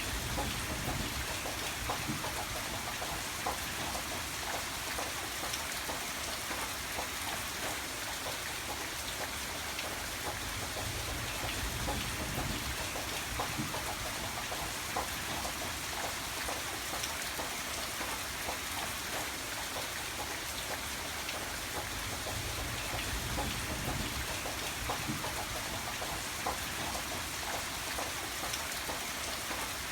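Steady rain falling on a surface, with many individual drops ticking through it. A low rumble swells a few times underneath.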